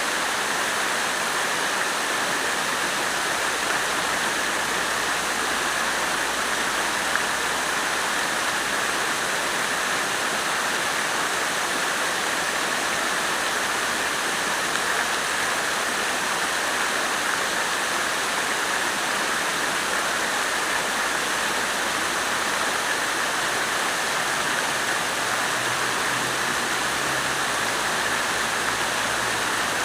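Water fountain splashing, a continuous, even rush of falling water.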